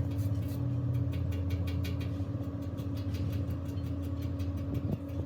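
Machinery running steadily, a low hum with a regular fast ticking of about five ticks a second.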